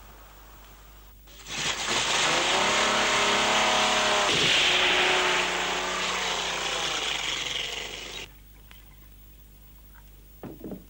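Car engine revving hard, its pitch dipping and then rising again, then cutting off abruptly about eight seconds in. A couple of light clinks near the end.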